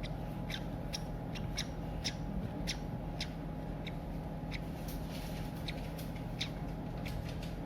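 Baby songbird's begging cheeps during hand-feeding: a steady run of short, high chirps, about two or three a second.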